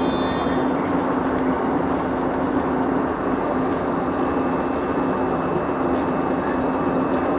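Steady hum of a stationary electric train: a constant low tone over an even wash of rumbling noise, with no change in level.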